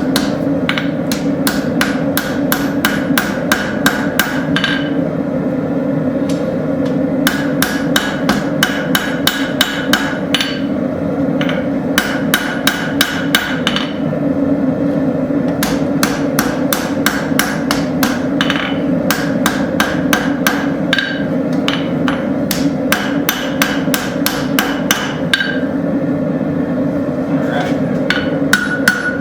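Hand hammer forging a hot railroad spike on an anvil, about three blows a second in runs broken by short pauses, the anvil ringing after the blows. A steady low rumble runs underneath.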